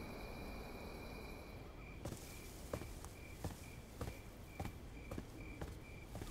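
Crickets chirping: a high trill that is steady at first and breaks into even pulses about two seconds in. Footsteps at a walking pace from about two seconds in.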